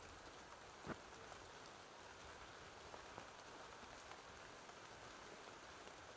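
Faint, steady rain falling, with a single sharp knock about a second in.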